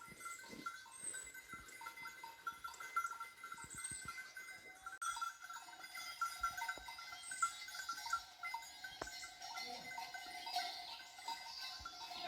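Bells on a flock of sheep clanking irregularly as the animals move.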